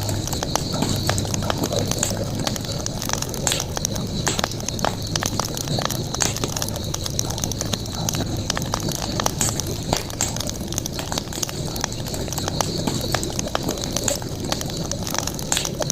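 Campfire crackling, with frequent irregular sharp pops and snaps over a steady low rumble and a constant high-pitched hiss.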